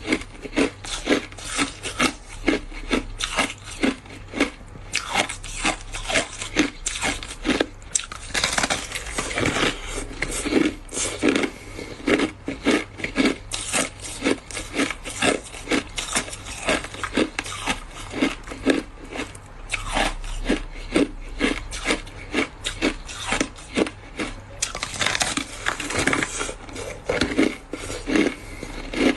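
Ice being bitten and chewed close to the microphone: a steady run of sharp crunches, a few a second.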